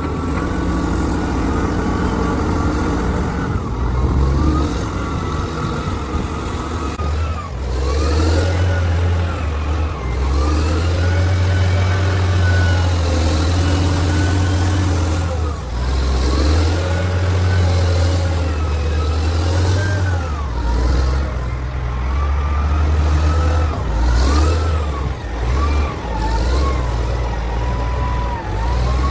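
Excavator diesel engine and hydraulics working, a steady low engine drone under a whine that rises and falls in pitch every few seconds as the machine loads and eases off.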